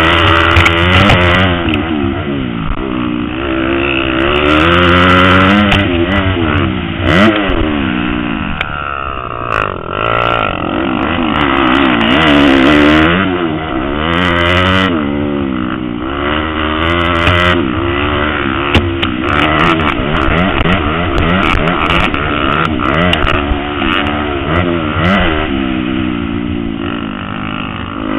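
Motocross motorcycle engine revving hard and dropping back over and over, its pitch climbing and falling every second or so with shifts and throttle changes.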